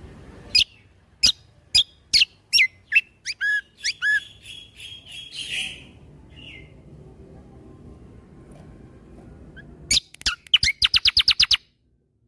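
Kecial kombo (cucak kombo) songbird singing: a series of sharp, falling whistled notes about two a second, ending in a short trill, then after a pause a fast rattling burst of about a dozen high notes.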